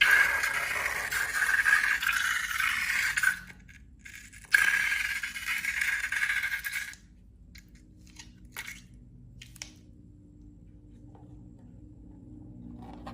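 Scraping, crackly noise of slime-making materials being handled, in two long stretches separated by a short pause, followed by a few faint clicks.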